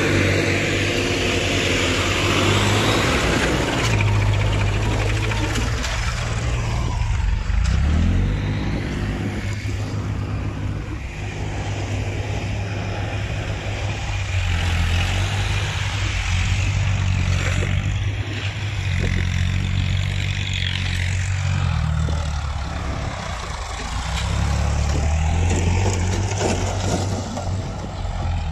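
Tractor diesel engines running hard under load, revving up and down as they pull.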